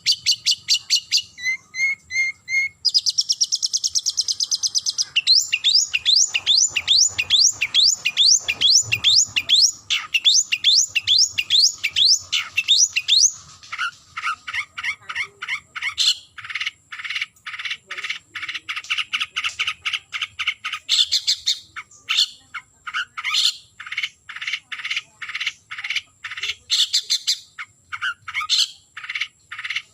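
Long-tailed shrike (cendet) singing a challenge call to a rival. It gives a fast run of sharp, rising notes, then from about halfway through switches to a long series of harsh, scratchy chattering notes.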